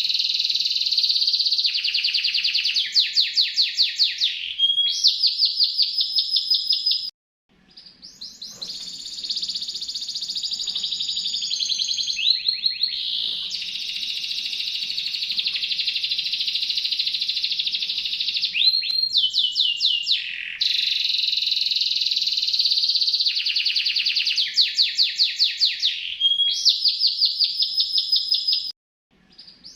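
A captive songbird's continuous high-pitched song of rapid chirps and trills, kept up as a training 'masteran' recording. It breaks off briefly about seven seconds in and again near the end. The same run of phrases seems to come round again after about twenty seconds, as a looped recording would.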